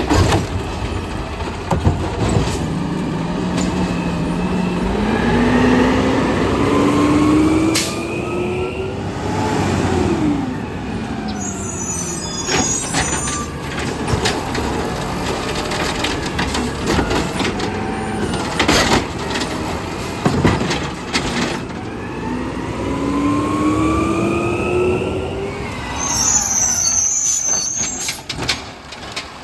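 Garbage truck collecting carts: the engine revs up with a rising whine as the hydraulic lift works, with sharp bangs as the cart is slammed and dumped, and short hisses of air brakes. The cycle happens twice.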